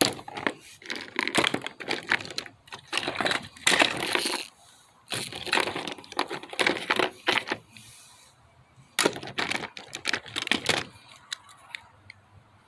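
Small plastic toy figures being handled and rummaged through, with bursts of clacking and crinkling and quieter pauses between.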